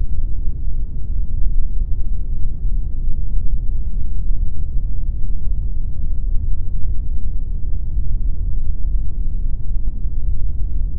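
Steady, unbroken pink noise: a deep, even hiss with most of its weight in the bass and little in the treble.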